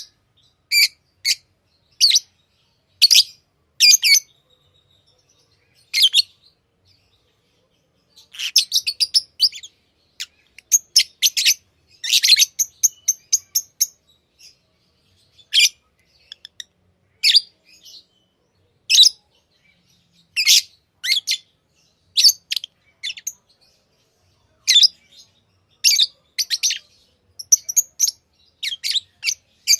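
Pet lovebirds giving short, shrill chirps, singly and in quick runs of several, with brief pauses between.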